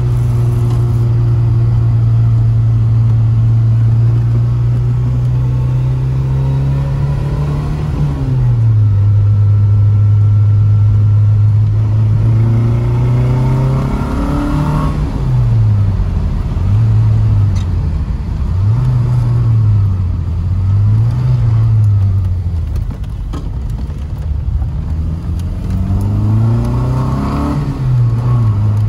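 Lancia Fulvia's narrow-angle V4 engine running under way, heard from inside the cabin. It holds steady revs, drops sharply about a quarter of the way in, then climbs and falls several times through the middle before rising again near the end.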